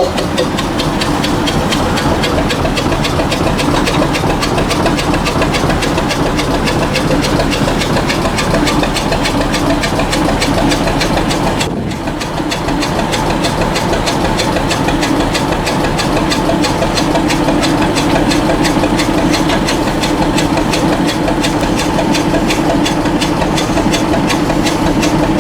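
Engine of the Locofox, a small rail vehicle, running steadily with a fast, even beat; the sound dips briefly about twelve seconds in, and a steady hum comes up more strongly in the second half.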